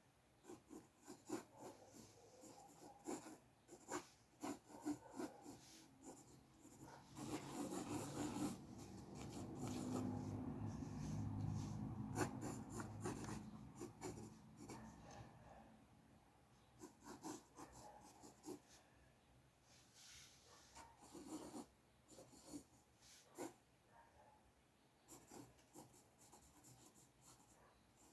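Faint drawing strokes on paper during sketching: many short scratchy strokes, with several seconds of continuous, heavier strokes about a quarter of the way in.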